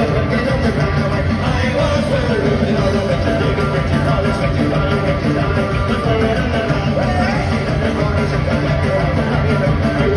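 Live folk-punk band playing loud and steady, with a melody line over driving guitar, bass and drums between sung verses, recorded from the crowd.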